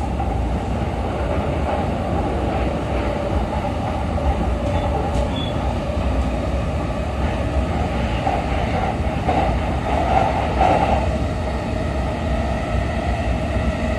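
Cabin running noise of a JR East E233 series electric train at speed: a steady rumble of wheels on rail with a constant hum.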